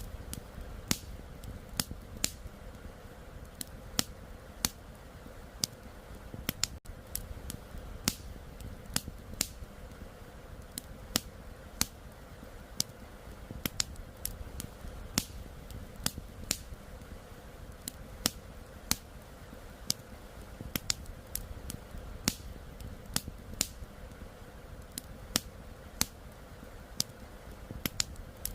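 Wood campfire crackling, with sharp irregular pops and snaps about one or two a second, over a steady low rush of the flowing river.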